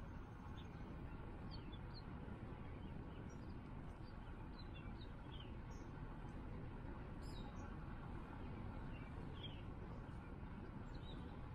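Wild birds chirping: scattered short, falling chirps over a steady low rumble.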